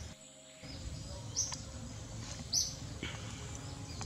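Short, high bird chirps, a few about a second apart, over steady outdoor background noise, with a brief drop-out in the sound just after the start.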